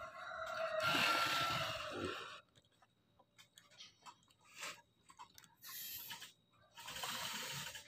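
Crunching and chewing of crisp green mango slices, in a few short noisy stretches with small clicks between them.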